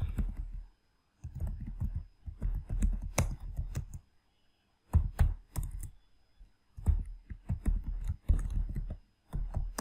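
Typing on a computer keyboard: runs of quick keystrokes broken by short pauses, as a command is typed into a terminal.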